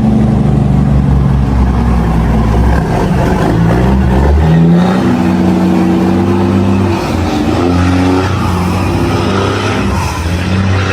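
Heavy haul truck engine running under load, its pitch changing a few times and rising about four to five seconds in.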